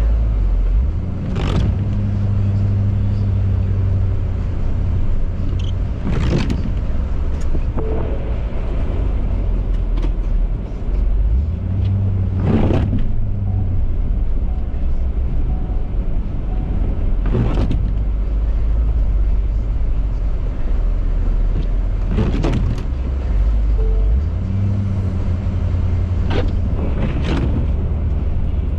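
Ford 6.7 Power Stroke V8 turbo-diesel of a 2018 F-350 running under way, a steady low drone whose pitch shifts a few times as the truck's speed changes. A brief sweeping sound recurs about every five seconds.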